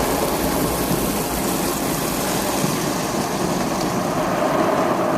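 Tunnel car wash equipment spraying water and scrubbing the car with friction brushes, heard from inside the car as a steady rushing noise like heavy rain on the body.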